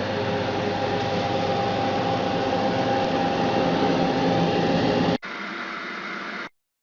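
Angle grinder running steadily with a loud whir. About five seconds in it drops suddenly to a much quieter steady noise, which then cuts off completely.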